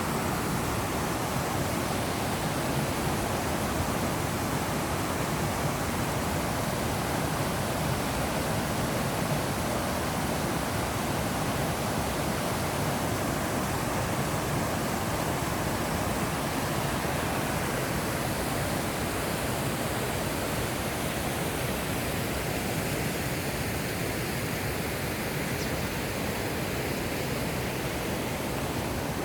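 Waterfall pouring in a mountain valley: a loud, steady rush of falling water.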